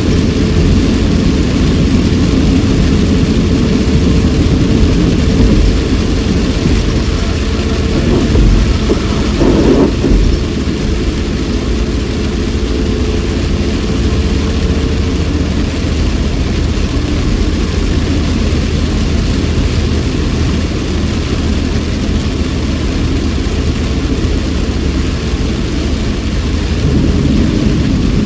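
Inside a moving car in heavy rain: a steady engine and tyre rumble under an even hiss of rain and spray on a wet road, with a brief louder swell about ten seconds in.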